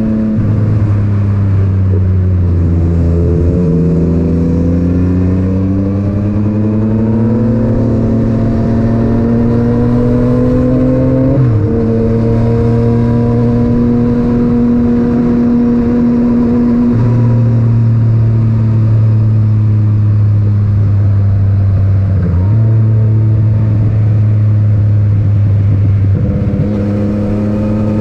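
Yamaha MT-09 inline-three engine through an Akrapovic titanium exhaust, heard from the rider's helmet with wind noise. The revs climb steadily for several seconds, drop suddenly at an upshift about eleven seconds in, then hold a steady cruise with a few small changes in pitch.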